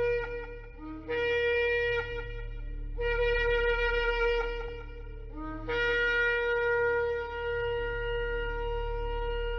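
Shofar sounding several long blasts separated by short breaths. Each blast opens on a brief lower note and jumps up to a held higher tone; the last blast begins a little past the middle and is held on.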